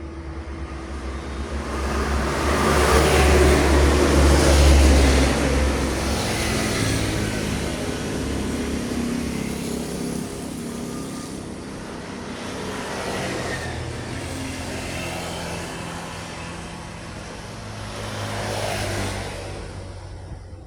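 Road vehicles passing by, the loudest a heavy diesel vehicle with a deep engine drone and tyre noise that swells and fades about three to five seconds in; two lighter pass-bys follow later.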